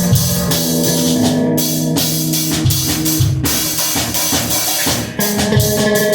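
Guitar and drum kit playing a rock piece together, with bass drum and snare hits under sustained guitar chords; the playing drops out briefly about five seconds in, then carries on.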